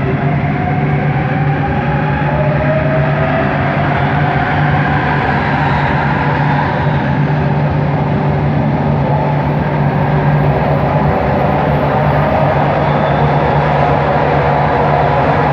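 Bombardier Innovia ART 200 metro train running, its motor whine gliding upward in pitch over the first several seconds, over a steady low hum and rolling noise.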